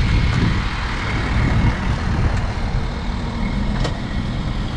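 Car engine running with a steady low rumble, heard from inside the cabin while the car is moved a little further to re-park. A few light clicks sound over the rumble.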